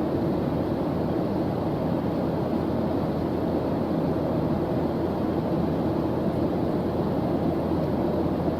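Steady white-noise study track: an unbroken, even rushing noise, heavy in the low end with little hiss on top.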